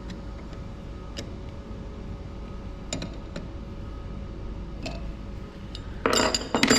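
Hand tools working on a diesel injector as it is tightened down: scattered sharp metallic ticks, then a louder dense burst of rapid clicking and rattling near the end.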